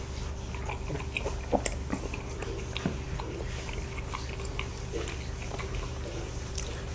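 Soft mouth sounds of chewing and swallowing soboro bread and milk, with scattered small clicks, over a faint steady hum.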